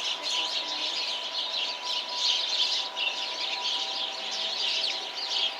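A flock of small birds chirping continuously, many calls overlapping in a dense, steady chatter.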